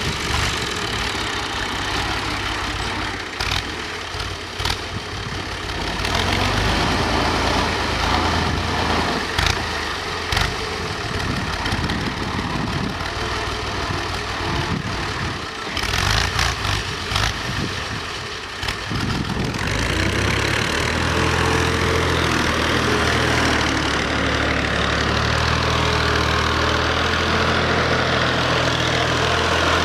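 An engine running steadily, with a few sharp clicks or knocks in the first twenty seconds; from about twenty seconds in it becomes louder and steadier.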